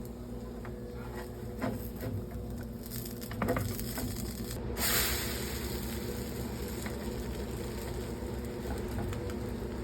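Pancake batter cooking in a hot pan on the stove, a soft sizzle that grows stronger about halfway through, over a steady low hum, with a couple of light clicks.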